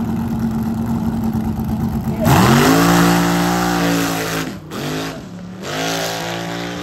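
A car engine runs with a steady hum, then about two seconds in it revs up hard and accelerates. The sound breaks off briefly twice, about a second apart.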